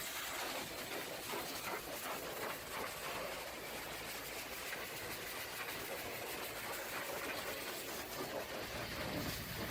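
High-pressure water jet spraying against a truck's bodywork, a steady hiss of spray.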